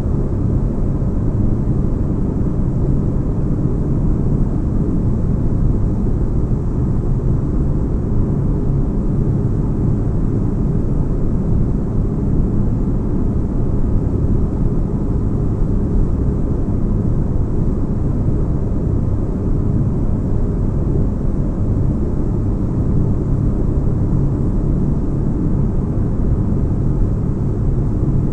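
Sci-fi spaceship interior ambience: a steady deep bass rumble like a ship's engines, with a faint steady hum running through it and no changes or events.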